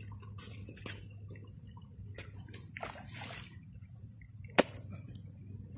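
Water splashing and sloshing in a flooded rice paddy as someone works at the water's edge, with scattered small knocks and one sharp slap about four and a half seconds in. A steady high-pitched whine runs underneath.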